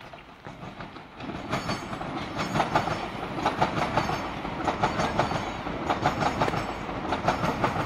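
Class 395 Javelin electric multiple unit running past close by, its wheels clattering over rail joints and the junction pointwork in rapid repeated clicks over a steady rumble. The sound swells about a second in as the train draws level.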